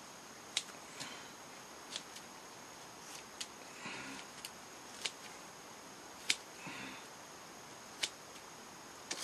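Scissors snipping into a foam puppet head, about nine short, irregularly spaced cuts as the brow is trimmed and blended, with two soft breathy sounds in between.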